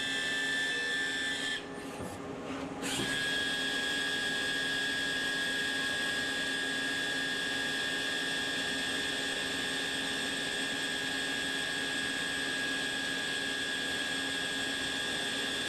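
CNC lathe running and cutting metal, with a steady high whine over a noisy hiss. The sound drops back briefly about two seconds in, then resumes with the whine slightly lower in pitch.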